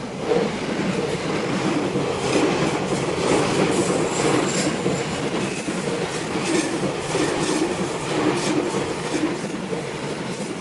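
Train passing close by as it rounds a curve, its wheels clacking steadily over the rail joints, with a thin high wheel squeal about four seconds in.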